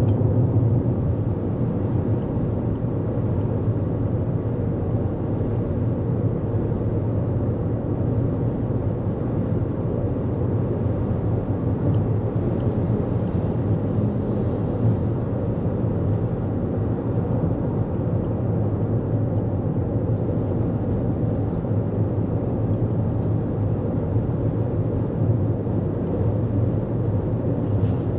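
2024 Toyota Corolla Cross cruising at highway speed, heard from inside the cabin: a steady low rumble of tyre, road and engine noise with no changes.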